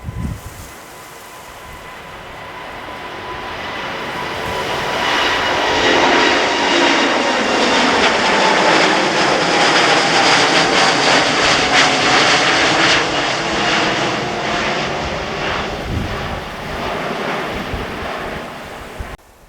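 Twin-engine jet airliner taking off at takeoff thrust: engine noise swells over several seconds, stays loud for about eight seconds as it passes, then fades. A fan whine runs through it and slowly drops in pitch as the jet goes by. The sound cuts off abruptly just before the end.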